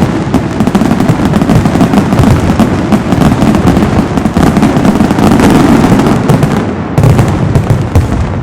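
Fireworks castillo: a loud, dense, continuous barrage of rapid bangs and crackles, with no gaps between reports, easing slightly near the end.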